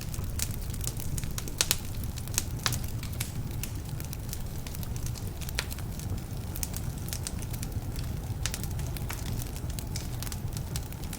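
Wood fire burning in a fireplace: sharp, irregular crackles and pops over a steady low rumble. Some of the logs are damp, which makes them crackle.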